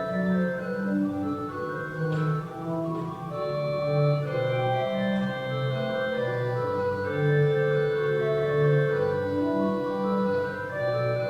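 Church organ playing slow, sustained chords that change every second or so, with a melody held above them.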